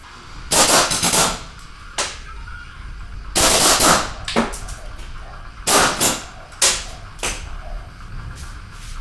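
Impact wrench hammering in about six short bursts, the longest about a second, undoing bolts on a removed Ford Transit 2.2 TDCi diesel engine.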